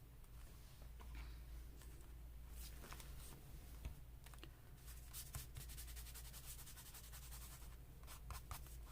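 Faint handling of paper pieces: light rustles, taps and scratches as cut-out ephemera are moved about on a page. They come more often from about five seconds in, over a steady low hum.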